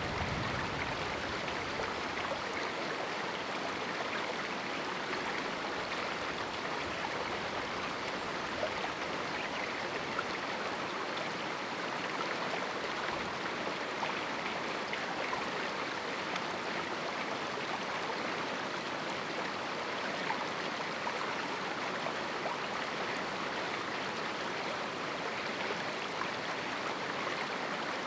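A small river running over rocks in a canyon: a steady rush and babble of flowing water.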